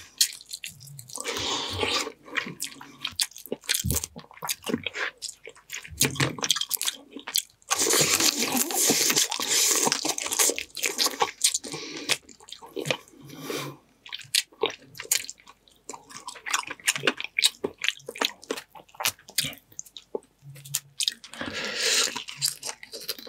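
Close-miked eating of boiled blue crab: biting and chewing with crunching from the crab shell and wet, squishy mouth sounds. It comes in bursts of dense crackling with short pauses between bites.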